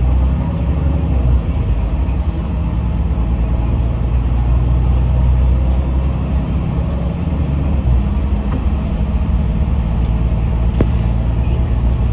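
Steady low rumble of a Yutong ZK6128HG diesel city bus under way, engine and road noise heard inside the passenger cabin, with a sharp click about eleven seconds in.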